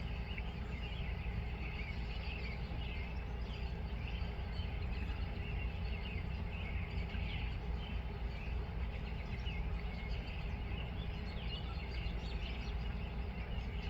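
Steady low outdoor rumble with many small birds chirping throughout, short, high, overlapping calls.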